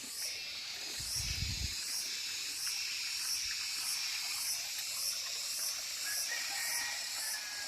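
Insects chirping outdoors: a continuous high buzz with a pulse repeating a little under twice a second. A brief low rumble comes about a second in.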